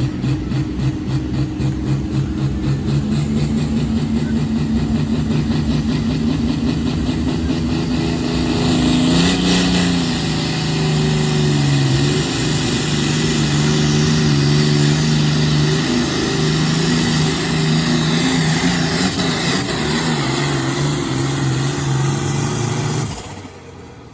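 A competition pulling vehicle's engine at full throttle dragging the weight sled. The note rises over the first several seconds, holds high and steady, then cuts off suddenly near the end as the pull ends.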